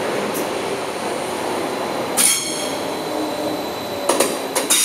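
Train moving on station tracks: steady wheel-on-rail running noise, with a brief high-pitched wheel squeal about two seconds in and a few sharp metallic clacks near the end.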